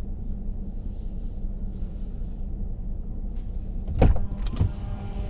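A truck engine running with a steady low hum. There is a loud thump about four seconds in, followed by a couple of lighter knocks.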